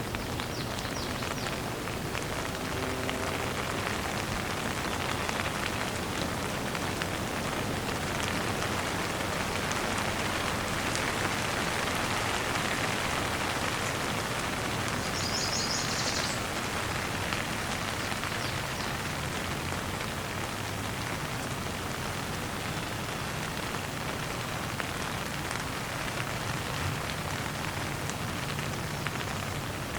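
Steady rain falling, with many individual drops pattering on a surface. A brief high chirp sounds about halfway through.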